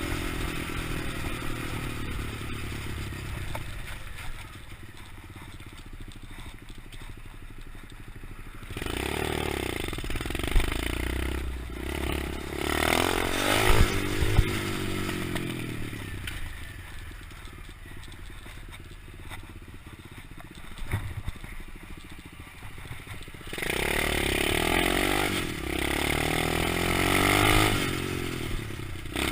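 125cc pit bike engine revving up and down as the bike is ridden. It is loudest in three stretches separated by quieter spells, with a few sharp knocks in the middle.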